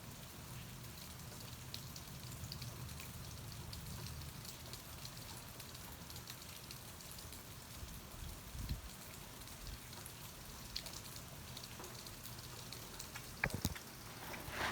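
Steady rain falling, with scattered close drops ticking. Near the end come a few sharp knocks as the phone recording it is handled and set in place.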